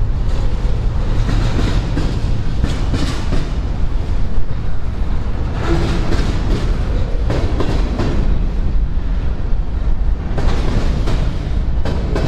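Freight train rolling past, its wheels clicking and clacking over the rail joints above a steady low rumble.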